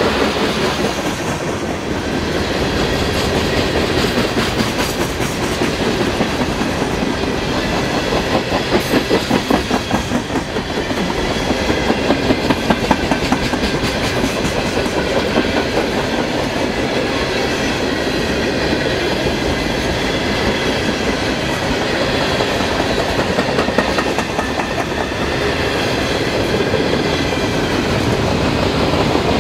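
Freight train's boxcars and refrigerator cars rolling past at speed: a steady rumble of wheels on rail with rapid rhythmic clicking of the wheels, the clicking loudest around nine to thirteen seconds in.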